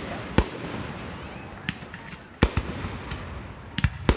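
Fireworks display: aerial shells bursting in a series of sharp booms, about six in all, with a quick cluster of three near the end, over a steady background hiss.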